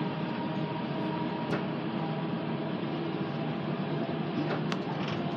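Steady running noise heard inside a passenger train travelling at speed: a constant rumble of the wheels on the track with a faint steady hum, and a couple of light clicks, one about a second and a half in and one near the end.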